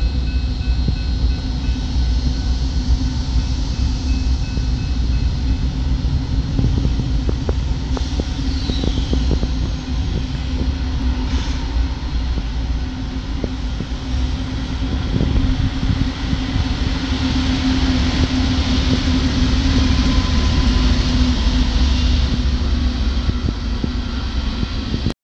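Norfolk Southern freight train passing: GE Dash-9 and ES44AC diesel locomotives running with a steady engine drone, then loaded hopper cars rolling by with a continuous low rumble and scattered wheel clicks on the rails.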